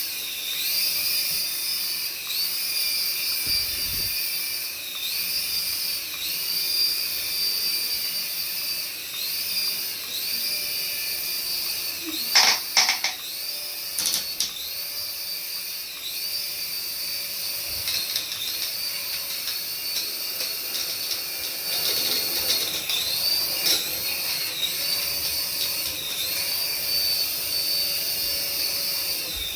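High-pitched whine from a remote-control toy, rising and settling in pitch in a regular cycle about once a second, with a few sharp clicks about halfway through.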